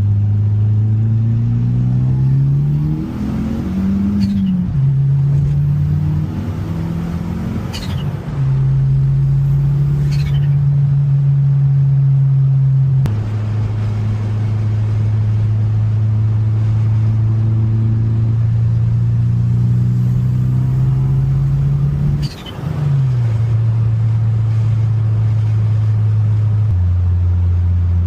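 1995 Mitsubishi Eclipse GSX's turbocharged four-cylinder running under way through the gears. The engine note rises, then drops in steps at each gear change, about 4, 8, 13 and 22 seconds in, with steady cruising between. A short high falling whistle comes at several of the shifts.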